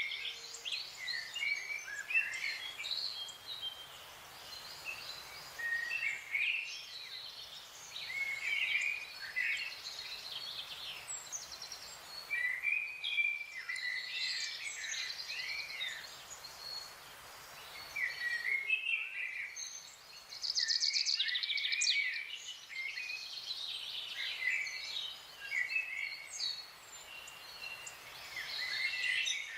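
Several wild birds singing and calling in a forest: short chirps and whistled phrases overlapping one another, with a fast, dense trill about two-thirds of the way through, over a steady faint background hiss.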